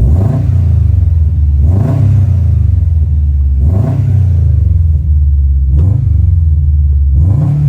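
Straight-piped Subaru STI with a swapped-in JDM STI turbocharged flat-four engine, no catalytic converter, idling with a deep rumble and blipped five times, each short rev rising and dropping back to idle.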